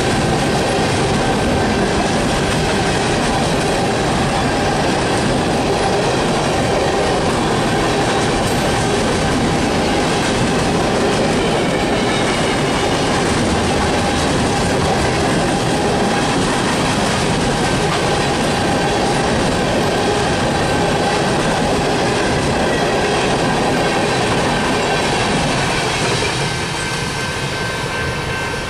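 Loaded BNSF coal train's gondola cars rolling past close by: steel wheels rumbling on the rails, with a steady ringing tone running over the noise. The sound eases off near the end as the last car goes by.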